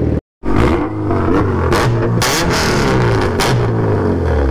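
A car engine being revved repeatedly, rising and falling in pitch, with several sharp, loud rev blips through a loud-sounding exhaust. The sound starts abruptly after a brief gap at the very start.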